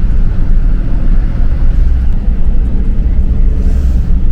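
Loud, steady low rumble of a vehicle on the move, typical of riding inside a bus.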